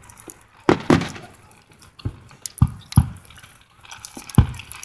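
Fireworks display shells bursting: a string of separate sharp bangs, about six in under five seconds, each with a short low rumble after it.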